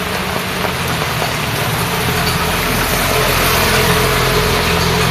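Rain and road traffic, with a motor vehicle's engine running steadily close by over the hiss of rain and wet road. It grows a little louder after about two seconds.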